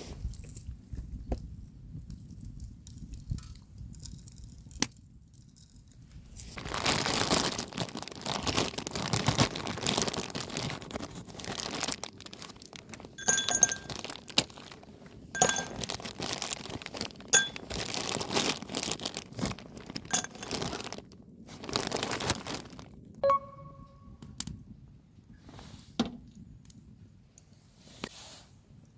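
Camp gear and packaging being handled: crinkling, tearing noises with scattered clicks and clinks. There is a single short ringing clink about 23 seconds in.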